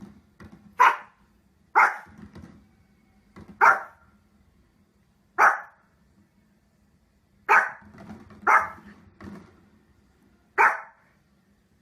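A dog barking: about seven loud single barks at uneven intervals, with softer barks in between.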